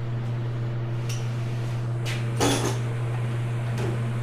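Metal hand tools being handled and set down: a few light clinks and one louder clatter about two and a half seconds in, over a steady low hum.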